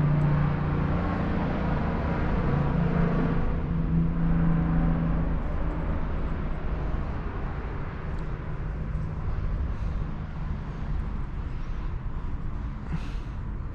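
A motor vehicle engine running, a steady low rumble with a hum that fades out about five seconds in.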